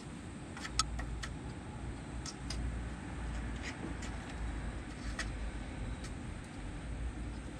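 Kittens playing: scattered light clicks and taps of paws and claws on the floor at irregular intervals, the sharpest a little under a second in, over a low steady rumble.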